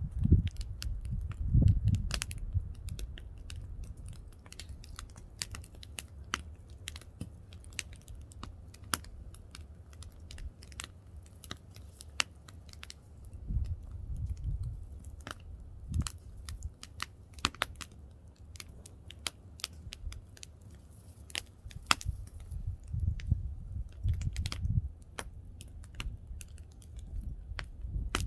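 Firewood fire burning, crackling with many irregular sharp pops over a low rumble that swells now and then.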